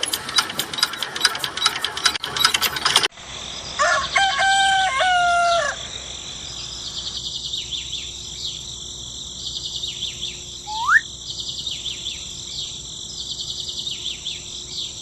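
A rooster crows once, about four seconds in, after a stretch of rapid clicking. Small birds then chirp over and over, with one rising whistle partway through.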